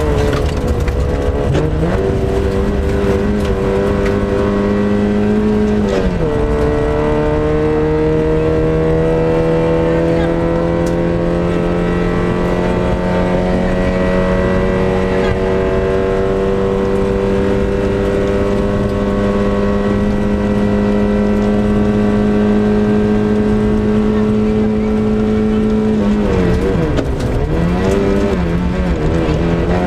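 Lada Samara rally car's four-cylinder engine heard from inside the car under hard acceleration. About six seconds in the revs drop briefly at a gear change, then climb slowly and steadily for some twenty seconds in one gear. Near the end they fall sharply and waver, as when braking and shifting down.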